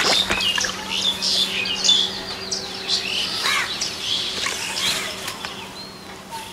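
Birds chirping and calling: a busy run of short high chirps and whistles, over a faint steady low hum.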